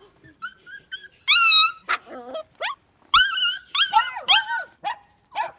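Dog whimpering and yipping: a run of short, high-pitched whines, the longest about a second in.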